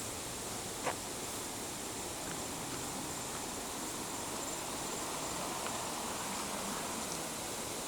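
Steady rush of distant flowing water in a jungle canyon, with a faint high insect drone over it. One brief sharp sound about a second in.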